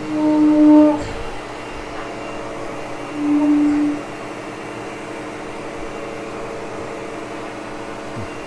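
Upright vacuum cleaner running with a steady motor hum. Two short, louder low-pitched groans rise over it, one at the very start and one about three seconds in.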